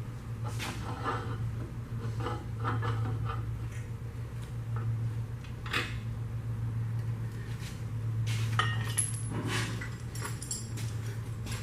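Metal engine parts and hand tools clinking and knocking now and then during an engine teardown, over a steady low hum.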